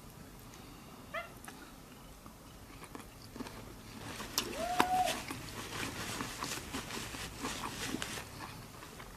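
A domestic cat meowing twice, begging for shrimp: a short call about a second in and a longer, clearer meow midway. Under it, small crackles and clicks from shell-on Cajun shrimp being peeled and eaten.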